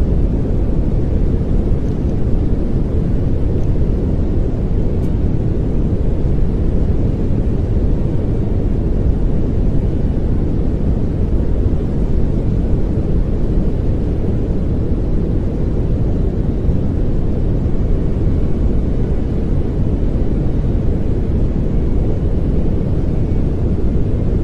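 Steady pink noise, an even, unchanging hiss with most of its weight in the low end.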